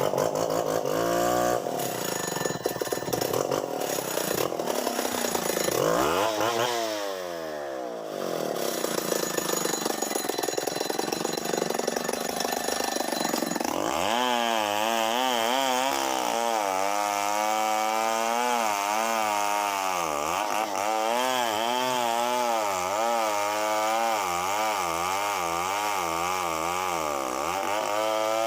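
Chainsaw engine running loud and revving, its speed dipping and climbing again a few seconds in, then rising and falling over and over in the second half as the throttle is worked during cutting.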